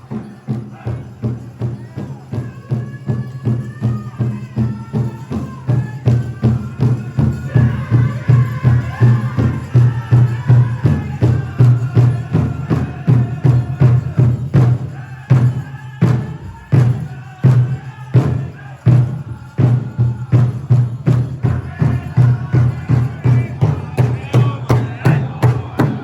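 Powwow drum group: a big drum struck in a steady beat about two and a half times a second, with the singers' high voices over it. About two-thirds of the way through come a few harder strikes with short breaks between them.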